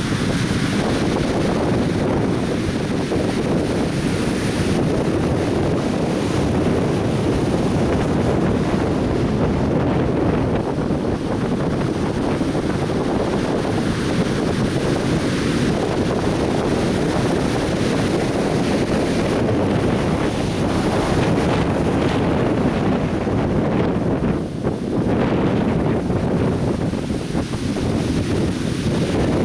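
Atlantic Ocean surf washing onto a beach in a steady, unbroken rumble, with wind buffeting the microphone.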